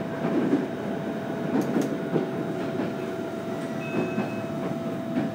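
Running sound heard from inside a JR Kyushu 815 series electric train: a steady rumble of the wheels on the rails with irregular clicks and knocks, over a steady electrical hum.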